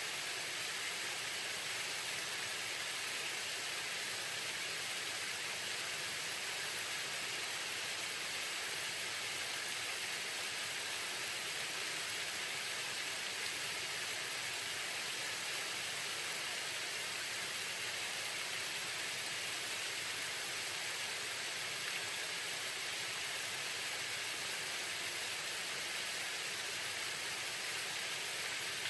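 Waterfall: a steady, even rush of falling water, bright and hissy, with no change in level.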